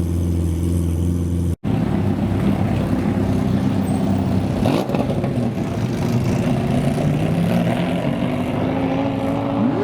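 Supercar engine idling steadily. After a sudden cut, car engines are heard running and driving, their pitch gliding up and down, with one quick sweep about halfway and a slow rise in pitch toward the end.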